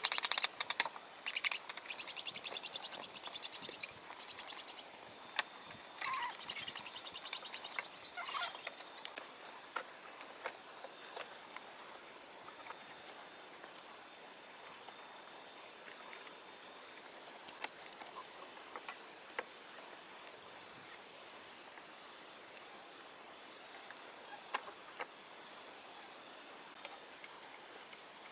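Insects chirping: a loud, fast, high-pitched trill for the first several seconds, then a faint chirp repeating at an even pace, with scattered light knocks.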